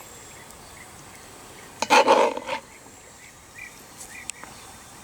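A single short, loud animal call about two seconds in, with faint chirps after it.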